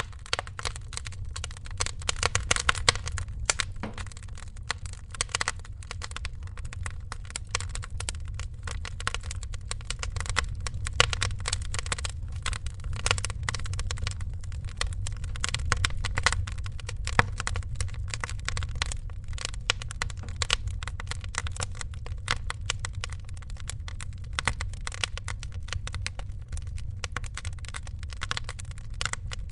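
Wood fire crackling in a fireplace: a dense, continuous run of pops and snaps over a steady low rumble.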